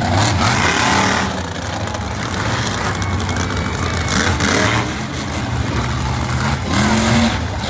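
Monster truck engine running loudly, its revs rising and falling.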